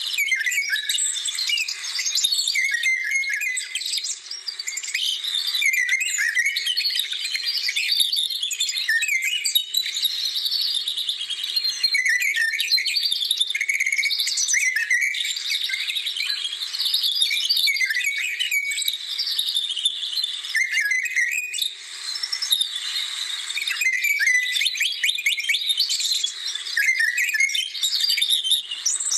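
Several birds singing, a dense chorus of overlapping quick chirps and whistled trills that rise and fall in pitch without a break.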